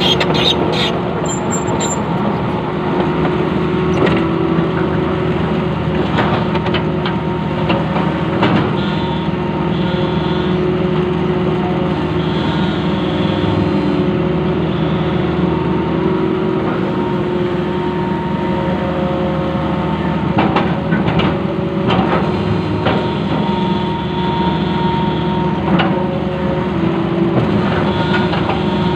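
Long-arm excavator's diesel engine running steadily under work, with a few sharp knocks and clanks along the way.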